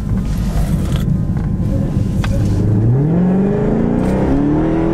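Dodge Charger Hellcat's supercharged 6.2-litre Hemi V8 accelerating hard, heard from inside the cabin. Its note holds a steady low rumble at first, then rises in pitch from about two and a half seconds in as the revs climb.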